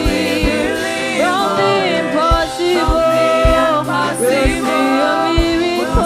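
Church worship band playing gospel music, with voices singing over a drum beat.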